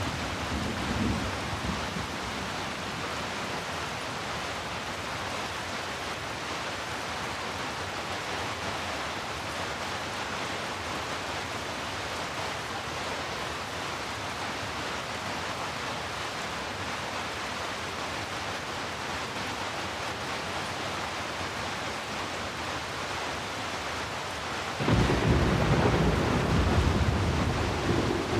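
Steady heavy rain, with thunder rumbling away in the first couple of seconds and a loud roll of thunder breaking in suddenly near the end.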